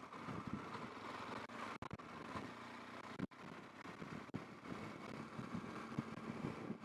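BMW R1200GS flat-twin motorcycle engine running steadily, with road and traffic noise; the sound drops out sharply twice, about two and three seconds in.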